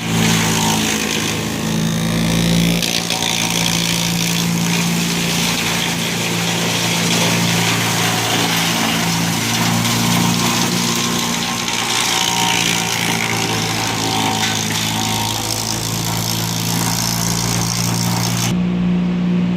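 An engine running steadily at a constant speed, under an even hiss that cuts off suddenly near the end while the engine keeps running.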